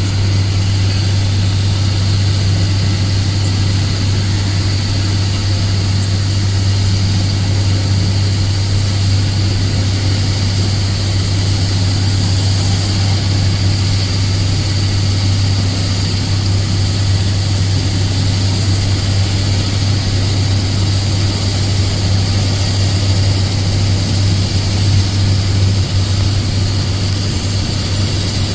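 Heavy engine machinery running at a constant pitch, a loud steady drone with a strong low hum.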